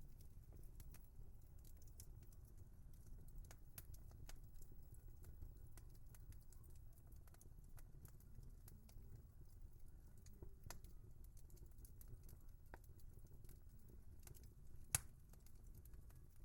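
Wood fire crackling: a soft low rumble of burning with scattered small crackles, and one sharp pop from the burning wood near the end.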